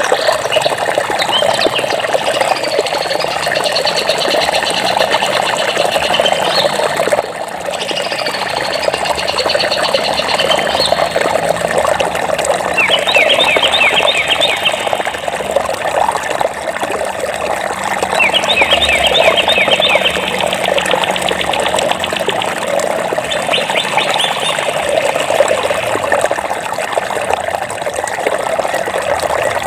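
A stream running steadily, with birds singing over it: sliding whistled phrases in the first third, then a rapid trill three times, about six seconds apart.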